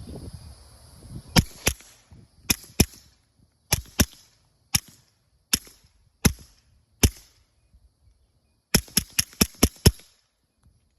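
Suppressed Beretta M9A3 9mm pistol firing through a CGS Group Mod 9 suppressor, about sixteen shots: pairs and single shots under a second apart, then a quick string of about seven near the end.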